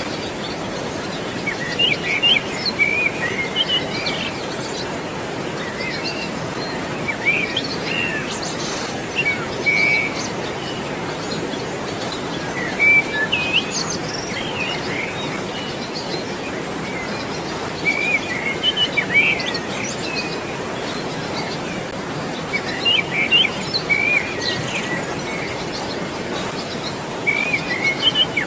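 Steady rushing water in a wooded valley, with birds chirping in short bursts every few seconds.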